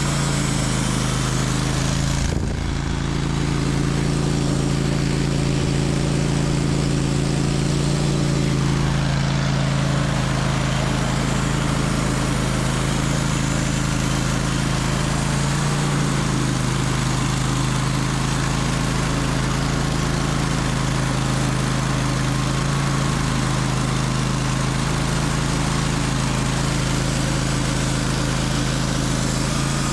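Sawmill engine running steadily under load while the saw cuts lengthwise through a sugar maple log, a constant low hum under a dense rushing hiss.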